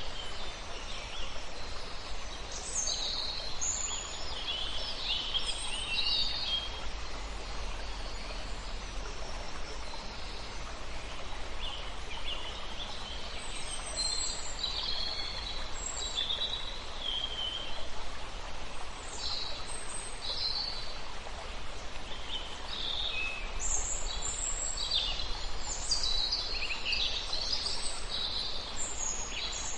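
Songbirds chirping and singing in several bouts of short, high calls over the steady rush of a river.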